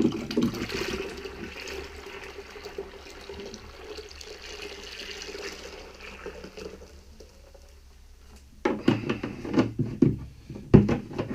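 Water with washed-out paint being poured out of a container, a steady splashing rush that fades after about seven seconds. Then a series of knocks and clatter near the end.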